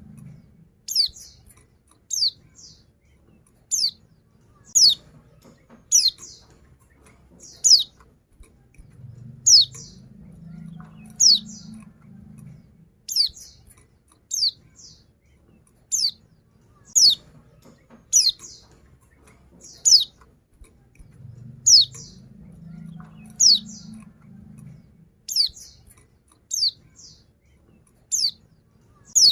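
Female white-eye (pleci) giving a short, high call that falls in pitch, repeated about once a second, each call followed by a brief softer note: a female calling to males.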